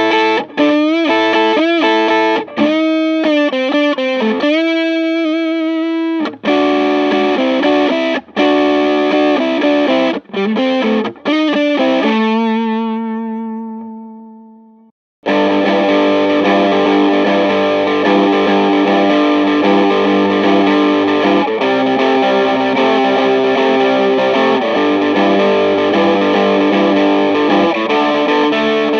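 Electric guitar played through a Tube Screamer-style overdrive pedal, the Valeton Coral Tube Engine: choppy overdriven chords and riffs with short stops, then a held chord that rings out and fades to silence about fifteen seconds in, then continuous overdriven playing.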